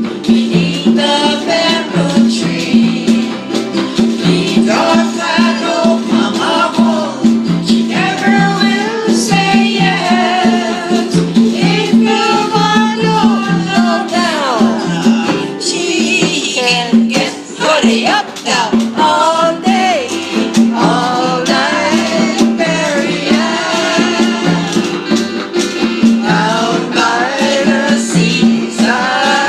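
Live band playing a calypso-style song, with singing over a steady rhythm of conga drums and a rattling washboard.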